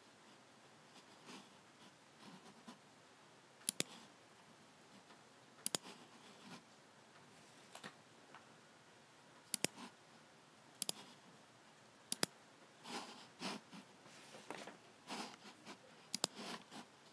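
Logicool G7 computer mouse button clicking: about six sharp clicks spaced one to four seconds apart, each a quick double snap of press and release. Softer rustling sounds come between them and crowd together in the last few seconds.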